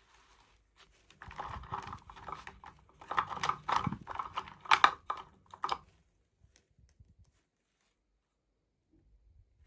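Plastic toy packaging crinkling and clicking as it is handled and opened. A dense run of rustles and clicks starts about a second in and stops about six seconds in, followed by a few faint single clicks.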